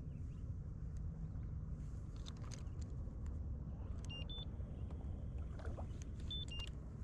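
Low steady rumble of water and air moving around a fishing kayak on the lake, with a few light clicks and two short, high two-note chirps, about four and six and a half seconds in.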